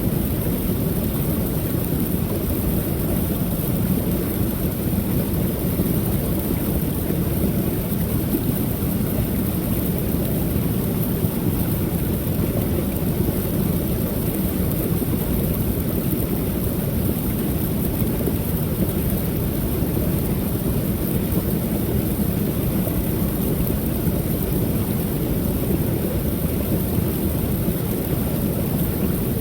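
Creek waterfall running steadily: an even, low rush of falling water with no pauses or changes.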